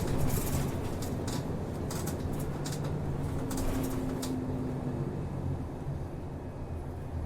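A city route bus heard from inside the passenger cabin while underway: a steady engine and drivetrain hum whose pitch shifts a couple of times, with irregular sharp clicks and rattles through the first four seconds or so.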